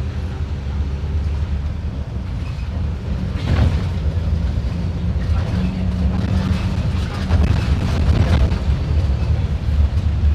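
Mercedes-Benz OF-1721 BlueTec 5 bus diesel engine running with a steady low hum. It grows louder from about three and a half seconds in, with added rattle and road noise in the second half.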